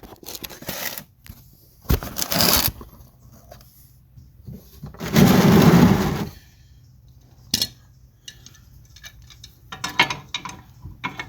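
Irregular handling noise: metal clinks, knocks and scrapes, with one longer, louder rustling clatter about halfway through.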